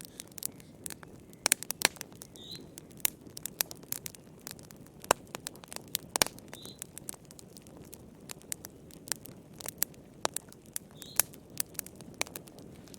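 Wood fire in a fireplace crackling, with irregular sharp pops and snaps over a soft steady hiss. A faint short high chirp sounds three times, about four seconds apart.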